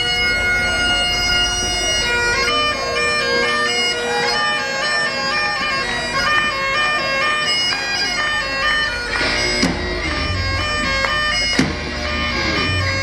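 Medieval-style bagpipe music: a melody stepping from note to note over a held drone, with drum beats coming in about three-quarters of the way through.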